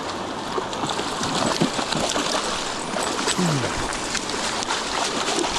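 River water running, with irregular splashes as a hooked steelhead thrashes in the shallows at the bank while being landed.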